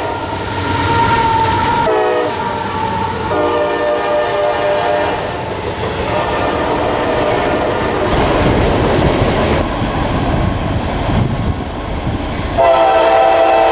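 Locomotive air horn blowing a chord. Its pitch drops about two seconds in and it sounds again briefly after, then gives way to the rumble and wheel clatter of the passing train. The horn comes back loudly near the end.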